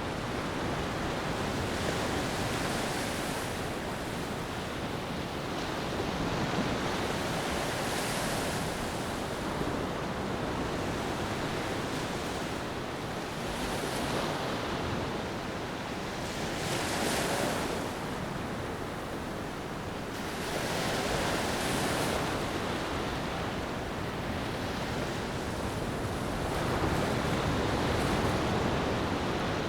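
Sea waves washing onto a beach: a steady hiss that swells and fades every few seconds as each wave breaks and draws back.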